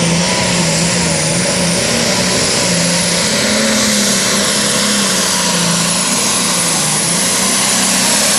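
Pulling tractor's turbocharged diesel engine running at full power under load during a pull, with a high, steady turbocharger whine over the engine note.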